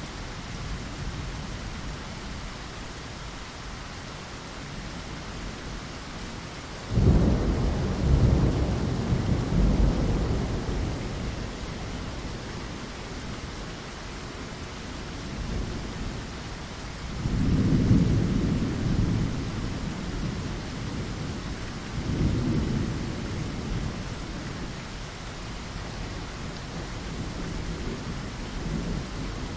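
Steady rain with thunder. A rumble starts suddenly about seven seconds in and lasts several seconds, and two more rumbles follow later.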